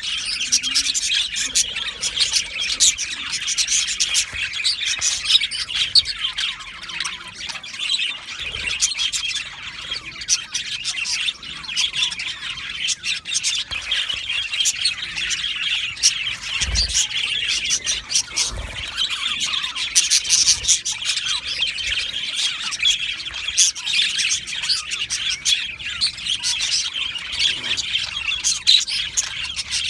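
A flock of budgerigars chattering and chirping continuously, many overlapping warbles and squawks at once, with a few brief low thumps.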